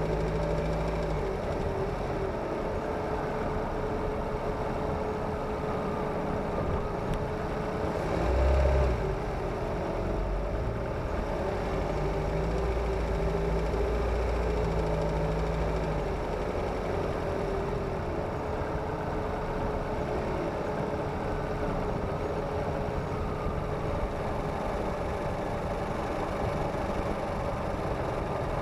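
Kia Ceed's G4FG 1.6-litre four-cylinder petrol engine running, heard from under the bonnet, with a brief swell in level about eight or nine seconds in. This engine knocks when cold under acceleration, a knock that goes away once it is warm.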